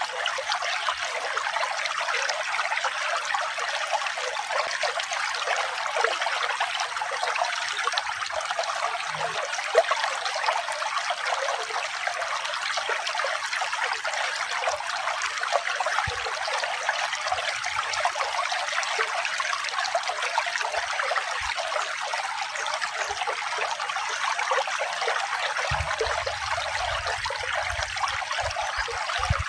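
Running water trickling steadily, a light, even splashing with no deep rumble.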